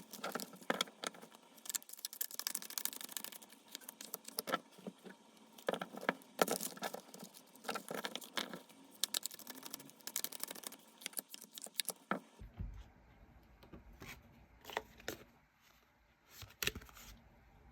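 Tarot cards being shuffled and handled, a dense run of quick rustling, snapping card sounds. About twelve seconds in this gives way to a few sparser clicks over a low rumble.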